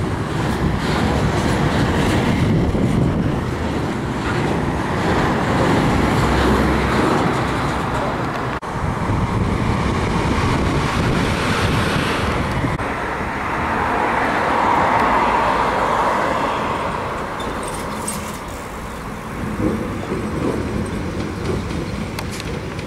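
Passing electric trains: the rumble and wheel-on-rail noise of a freight train of Talbot hopper wagons, then light electric locomotives running through. The sound changes abruptly about a third of the way in and again about halfway.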